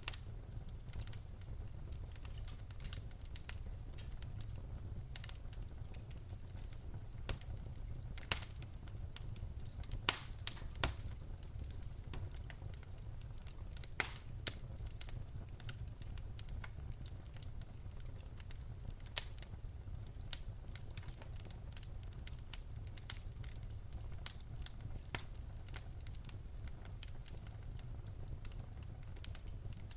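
Wood fire in a fireplace crackling: irregular sharp pops and snaps from burning logs, a few louder ones standing out, over a steady low rumble of the flames.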